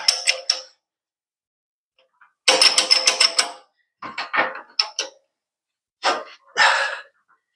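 Metal-on-metal clattering in three bursts of rapid clicking, the longest about two and a half seconds in: a tool working against steel as a socket is pushed out through a suspension bushing bore.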